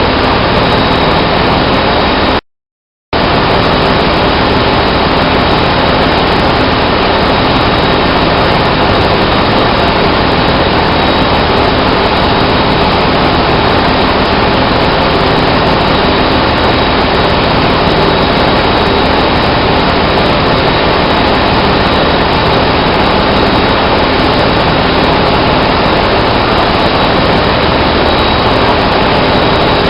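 Loud, steady drone of engine-room machinery, with a thin high whine held throughout. The sound cuts out completely for about half a second some two and a half seconds in.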